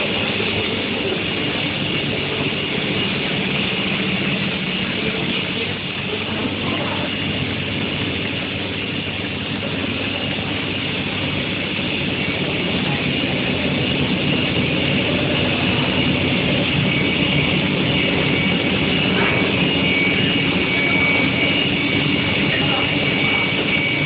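Steady industrial din of a steel hot-rolling line and its electric heating furnace: a dense continuous machine noise with a low hum and a constant faint high whine.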